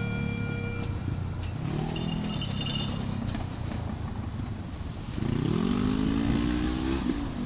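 R68-series New York City subway train running over the rails, its traction motors whining; about five seconds in the whine rises in pitch and levels off as the train picks up speed, and the sound gets louder.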